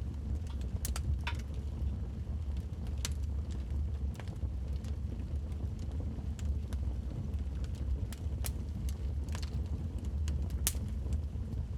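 Wood fire burning in a fireplace, a steady low rumble with irregular crackles and sharp pops from the logs.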